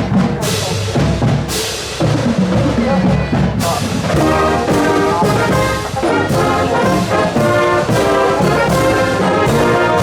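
Marching band playing: brass (trombones and trumpets) with drums, two percussion crashes in the first couple of seconds, then full sustained brass chords from about four seconds in.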